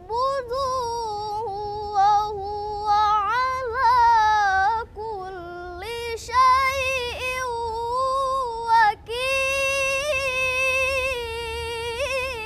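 An 11-year-old girl reciting the Quran in the melodic tilawah style. Her single high voice holds long, ornamented, wavering notes and breaks off briefly twice for breath.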